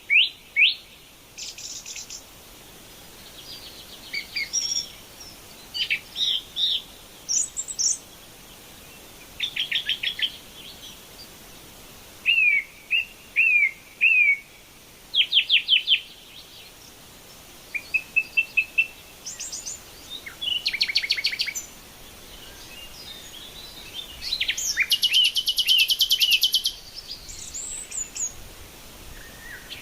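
Several wild birds calling and singing in short, varied phrases of chirps, whistled notes and quick repeated notes, with short pauses between them. A long, rapid trill comes near the end.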